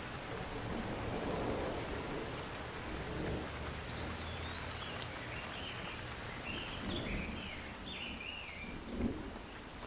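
Steady rain falling, with a bird calling in a run of short chirps through the middle. A single thump near the end.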